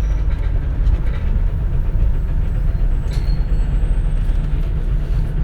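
Steady low rumble of a 2004 compressed-natural-gas city bus running, heard from inside the cabin.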